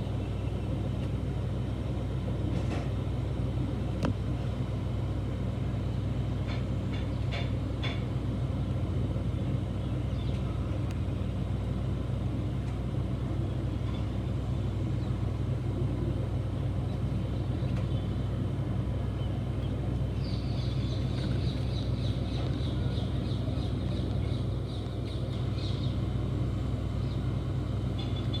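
Sikorsky S-76C++ twin-turbine helicopter in flight: a steady, even low rumble of engines and rotor, with a faint higher hiss joining about twenty seconds in.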